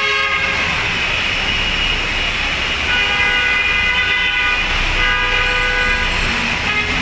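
Road-vehicle horns honking over a steady hiss of heavy rain in city traffic, with long honks near the start, about three seconds in and about five seconds in.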